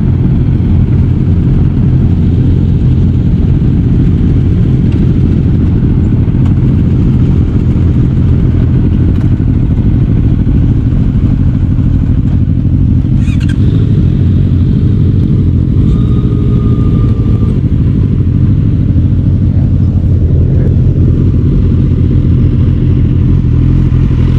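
Motorcycle engine running steadily, heard close. A short high tone sounds briefly about two-thirds of the way through.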